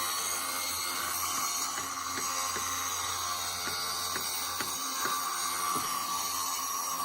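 Circular saw running steadily as it cuts through a wooden fascia board, a continuous high whine.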